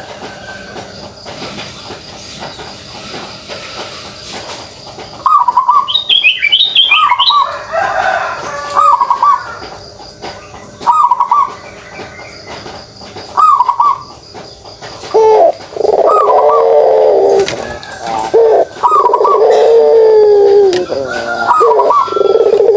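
Puter pelung (ringneck dove) giving its rolling 'kugeruk' coo. Short coos repeat every couple of seconds from about five seconds in. Longer, louder drawn-out coos fill the second half, and a few higher chirps come early on.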